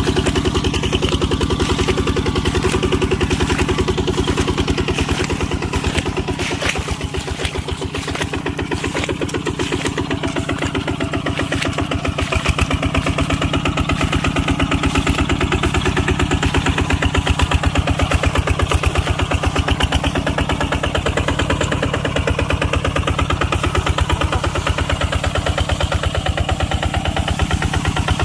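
Tractor engine running steadily with a rapid, even train of firing pulses; it eases off slightly for a few seconds partway through, then comes back up under load.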